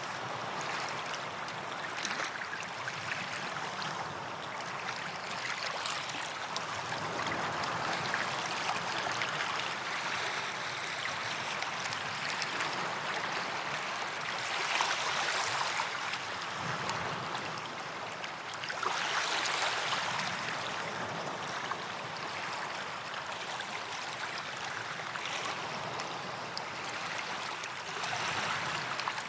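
Small waves washing onto a sandy beach, a steady hiss of surf that swells with each wave, about four times.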